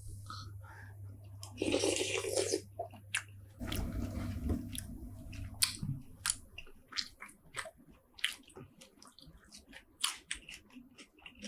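Close-up mouth sounds of a person chewing seafood: many sharp wet clicks and smacks, with a denser noisy burst about two seconds in.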